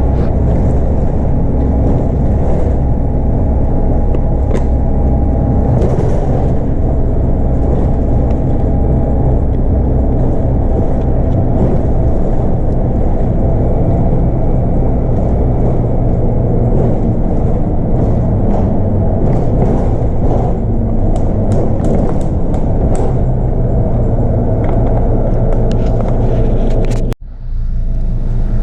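The bus's Scania DC9 8.9-litre five-cylinder diesel engine runs steadily under way, with body rattles and clicks over the drone. Near the end the sound cuts out for a moment and then returns.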